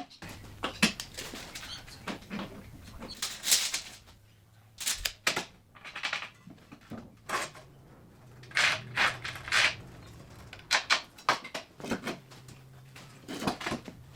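Irregular knocks, clunks and scrapes of metal parts and tools being handled at a workbench, over a faint low hum.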